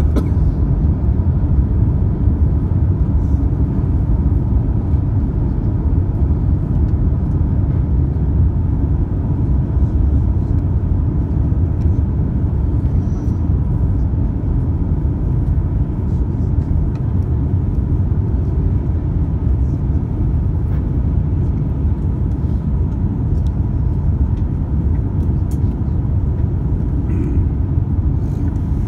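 Steady, even rumble of jet airliner cabin noise inside an Airbus A350-900, its Rolls-Royce Trent XWB engines and airflow heard from an economy seat.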